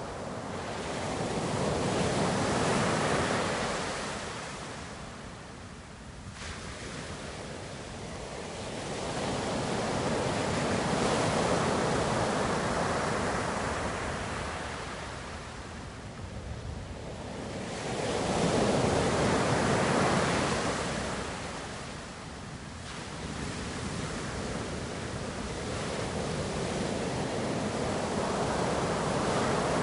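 Ocean waves breaking and washing up the shore, the surf swelling and fading in slow surges about every eight seconds.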